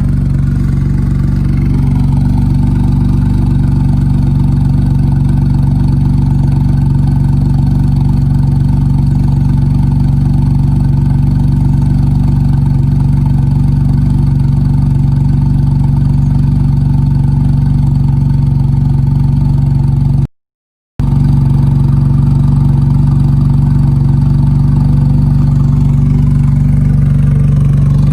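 BMW E91's engine idling steadily after a cold start, heard through an aftermarket exhaust: a 3-inch single pipe from the stock headers, a Vibrant Ultra Quiet resonator and dual tips. The sound cuts out for about half a second about two-thirds through, and the pitch begins to rise near the end.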